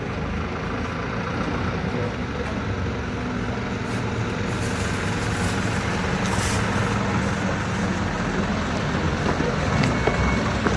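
City bus engine running steadily, slowly growing louder.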